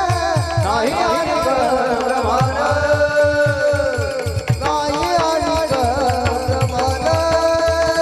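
Devotional abhang singing in a kirtan: a voice sings long ornamented phrases that bend in pitch over a hand drum keeping a steady beat of about four strokes a second.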